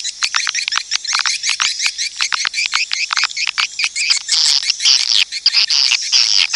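Swiftlet call recording: a dense, rapid twittering of swiftlet chirps, with a longer buzzy trill from about four to six seconds in. This is the kind of call track played to lure swiftlets into a nesting house.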